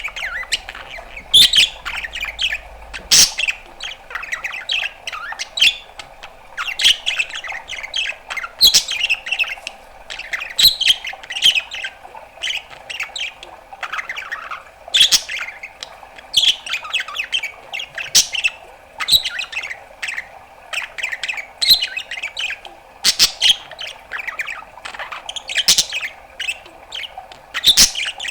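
Budgerigar chattering without a break: a string of quick chirps, short squawks and clicks in an irregular warble, over a faint steady hum.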